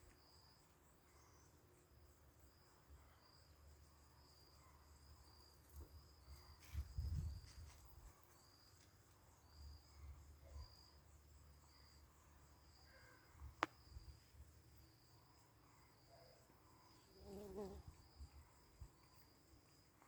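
Faint insect chirping outdoors: a steady series of short, high chirps repeating at an even pace. A low rumble passes a few seconds in, and a single sharp click sounds about two-thirds of the way through.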